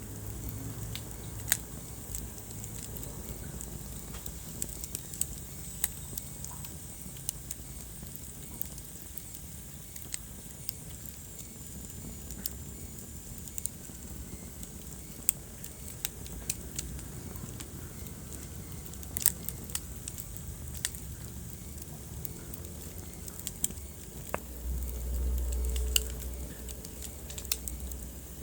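Wood fire burning in a fireplace, crackling with frequent sharp pops and snaps over a steady low rumble. The rumble swells louder for a couple of seconds near the end.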